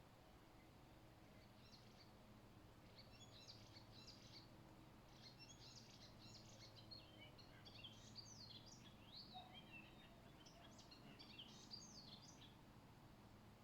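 A songbird singing faintly: one long, rapid run of varied high chirps and trills lasting about ten seconds, over a faint low steady hum.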